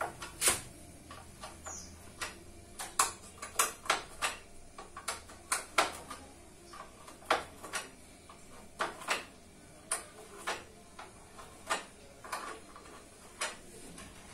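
Irregular light metallic clinks and taps, roughly one or two a second, of hand tools being worked on a motorcycle rear wheel hub.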